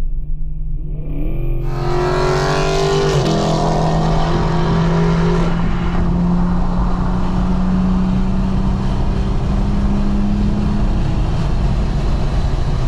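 The full-bolt-on Infiniti Q50 Red Sport's 3.0 L twin-turbo V6, heard from inside the cabin under hard acceleration on the highway. The engine note climbs, drops at an upshift about three seconds in, then pulls steadily at high load under loud wind and road noise.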